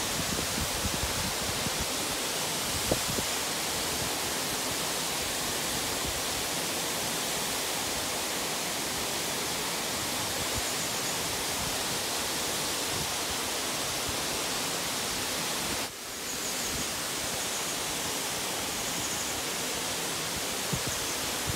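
Fervenza do Toxa waterfall: a steady rush of falling water, with a brief drop in level about three-quarters of the way through.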